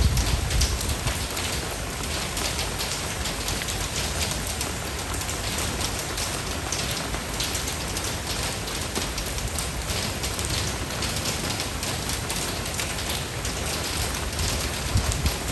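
Steady rain falling, with many separate drop hits through a constant hiss, and a low rumble in the first second.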